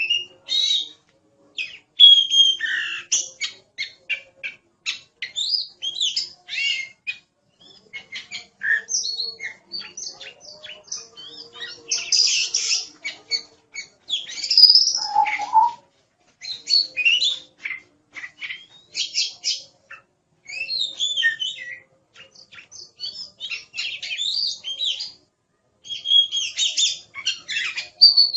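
Oriental magpie-robin (kacer) singing in full voice: a fast, varied run of whistles, chirps and harsh clicking rattles, delivered in short phrases with brief pauses between them.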